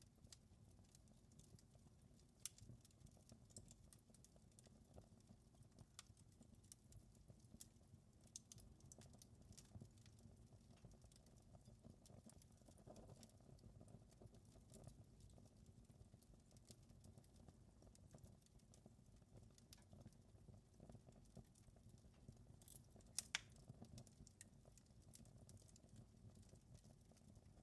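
Wood fire crackling in a fireplace, faint: scattered small pops and snaps over a soft low hum. Two sharper pops come close together about 23 seconds in.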